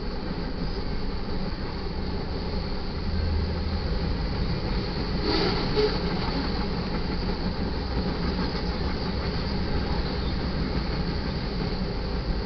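Freight cars of a manifest train rolling past at a grade crossing: a steady rumble of steel wheels on rail. There is a brief sharper knock about five seconds in.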